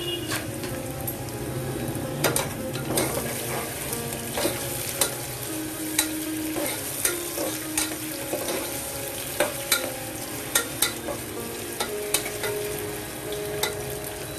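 Diced potato, sliced onions and green chillies frying in oil in an aluminium pressure cooker, with a steady sizzle. A spatula stirs the pan, its blade knocking and scraping on the pot in sharp clicks at irregular spacing, about one or two a second.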